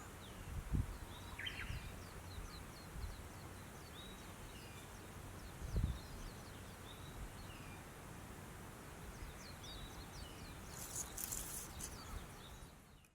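Outdoor ambience with small birds chirping again and again in short high notes, and a couple of low thumps. A brief rustle comes near the end.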